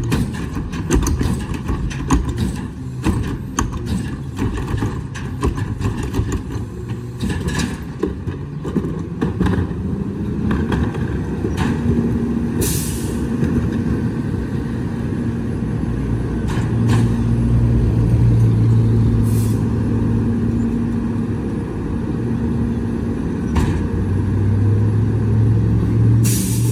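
Garbage truck at work: its diesel engine runs steadily while clanks and knocks come thick in the first third, and several short hisses of released air (air brakes) break out through the rest.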